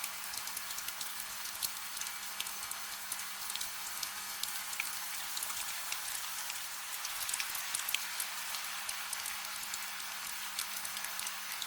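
Steady light rain: a soft hiss with many distinct drops ticking and pattering, no thunder.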